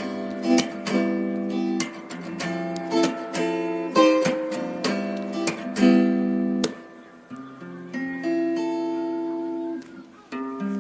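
Acoustic guitar music, chords strummed and plucked in a steady rhythm, softening for a few seconds past the middle before picking up again.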